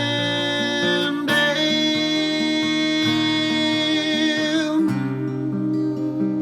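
Acoustic guitar strummed steadily, with long held melody notes wavering over it that stop about five seconds in, leaving the guitar alone.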